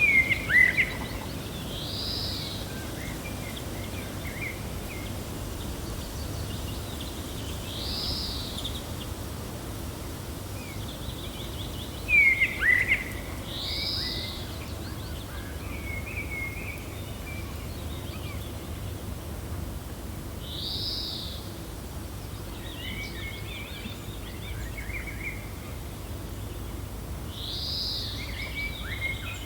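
Gentle wind with birds chirping. A high call that rises and falls repeats about every six seconds over scattered smaller chirps, and two louder sharp chirps come near the start and about twelve seconds in.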